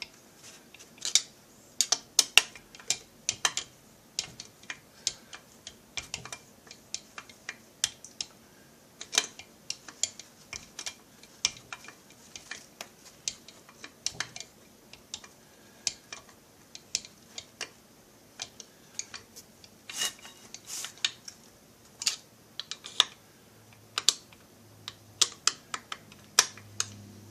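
Irregular sharp clicks and ticks of hand tools and metal parts as the screws holding the MS660-clone chainsaw crankcase halves together are driven in.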